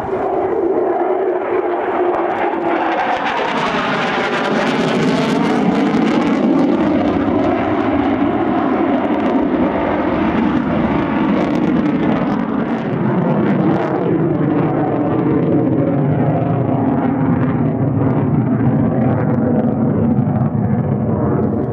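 Military aircraft engine noise during a flypast, loud and steady throughout, with a sweeping rise and fall in tone about four to six seconds in as the aircraft passes.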